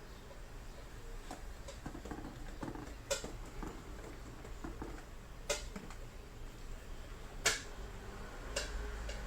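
Four sharp clicks or taps spread over several seconds, among fainter rustling and ticking, over a steady low hum.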